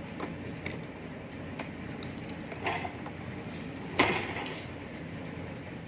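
Electrical connector being plugged into the replacement fuel pump. Small handling clicks and a short rattle come first, then a single sharp click about four seconds in, all over a steady low shop hum.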